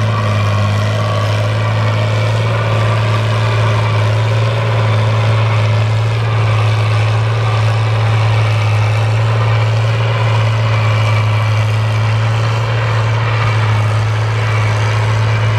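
Fiat 1000 DT tractor's diesel engine running steadily under load while plowing, a loud even drone with a strong low hum.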